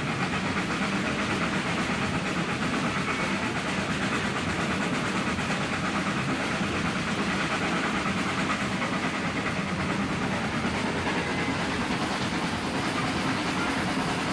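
Heritage steam railway train running along the track: a steady rumble and rush of wheel-on-rail noise with fast clickety-clack.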